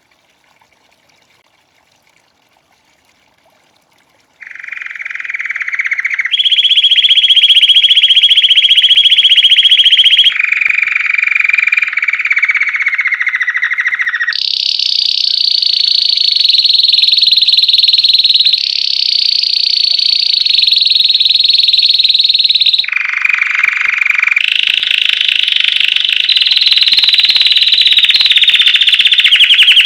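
Belgian canary singing after about four seconds of near silence: a long run of rapid trills, each held at a steady pitch for a few seconds before jumping straight to a higher or lower one.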